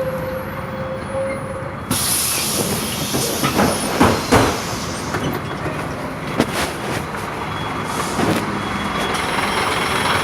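Scania K230 city bus running, with a sudden hiss of released compressed air starting about two seconds in. Several loud knocks and rattles follow a little later.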